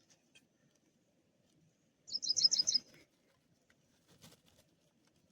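A bird calls once about two seconds in: a quick run of about seven high chirps lasting under a second, over faint rustling. A few faint ticks follow.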